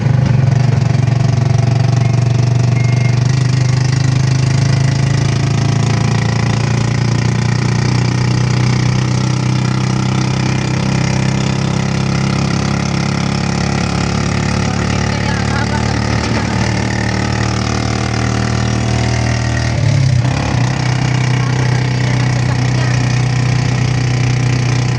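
Vehicle engine idling steadily with a low hum, with a brief change in the engine note about 20 seconds in.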